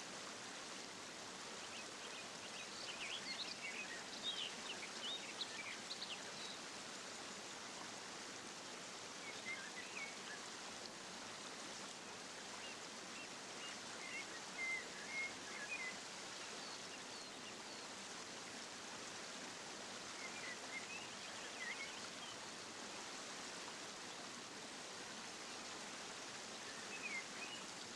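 Steady rush of running water, with small aviary birds chirping in short high bursts several times.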